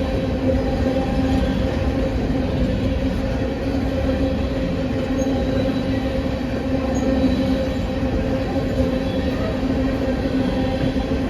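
Train running steadily: a constant low drone with a steady pitch over continuous rumble, with no breaks.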